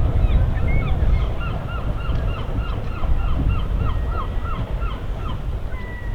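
A bird calling over and over, more than a dozen short down-slurred calls at about three a second, stopping about five seconds in, over a steady low rumble.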